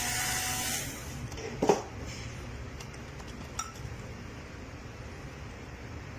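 Small hard parts and tools being handled: a brief hiss that stops about a second in, a sharp clink at about a second and a half, and a few lighter clicks later, over a steady low hum.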